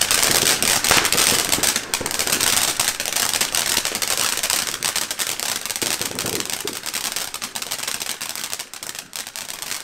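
A ground firework going off with dense, rapid crackling over a hiss, loudest in the first two seconds and slowly fading.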